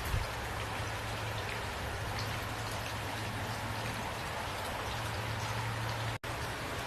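Steady rain, with individual drops ticking over an even hiss and a low steady rumble underneath. The sound cuts out for an instant about six seconds in.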